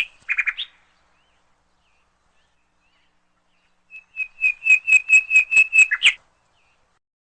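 Bird chirping: a short burst of high chirps, then after a pause of about three seconds a quick run of about a dozen sharp, high chirps, about six a second, that ends abruptly.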